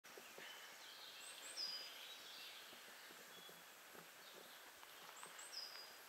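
Faint birdsong: a short, high chirping phrase ending in a clear whistled note, sung twice about four seconds apart, with a few fainter calls between.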